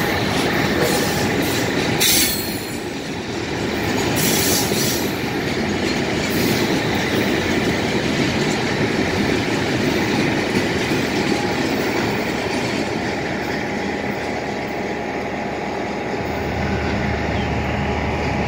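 Railway wagons rolling past close by: a steady rumble of steel wheels on the rails with clatter from the running gear, and one sharp clank about two seconds in.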